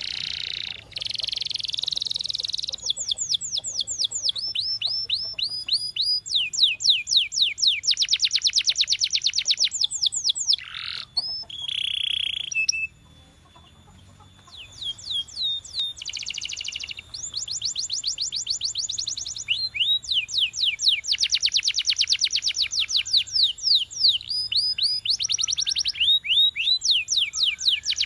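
Canary singing in long trilled tours: fast runs of repeated, down-slurred notes that change from one run to the next, with a short pause about halfway through.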